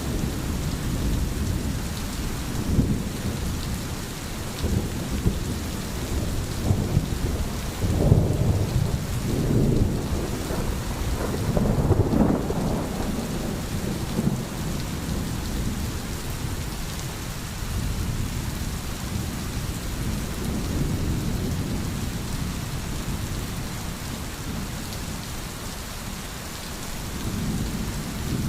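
Steady heavy rain with low rolling thunder rumbles, swelling loudest about a third of the way in and easing off afterwards.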